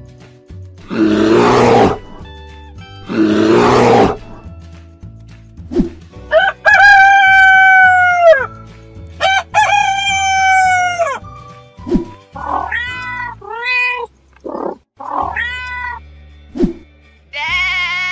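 Cartoon animal sound effects over light background music: two short rough growls, then two long rooster crows, a string of shorter calls, and a wavering sheep bleat near the end.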